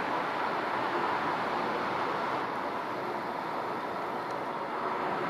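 Double-deck regional push-pull train approaching along the platform track: a steady rumble of wheels on rail, with a thin steady whine above it.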